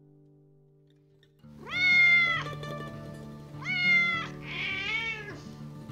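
A domestic cat meowing three times, starting about a second and a half in, the third call rougher than the first two, over soft background music.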